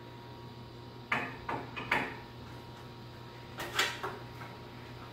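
A few light knocks and clatters of hard objects being handled, three close together about a second in and two more near four seconds, over a steady low hum.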